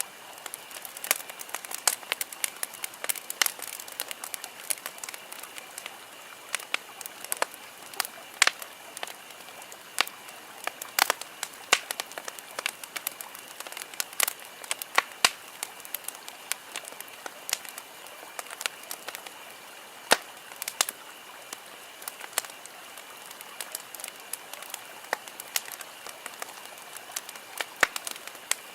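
Wood campfire crackling, with irregular sharp pops and snaps, several a second, over a soft steady hiss of burning. A faint steady high tone sits in the background.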